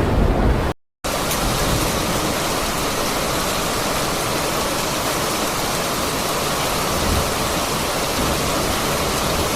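Surf and wind for under a second, cut off abruptly, then a steady, even rush of fast-flowing floodwater.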